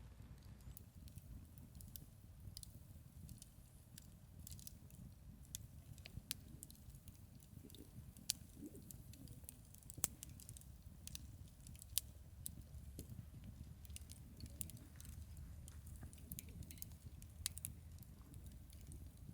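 Wood campfire crackling, with irregular sharp pops, a few of them much louder, over a low steady rumble.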